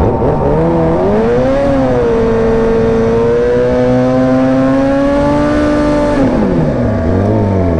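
Suzuki GSX-R1000 inline-four engine revved and held at high revs, its pitch creeping slowly upward for several seconds. About six seconds in the revs drop, then it is blipped once more.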